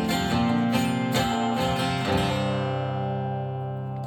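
Acoustic guitar strumming the closing chords of a live song, then one last chord left ringing and slowly fading away.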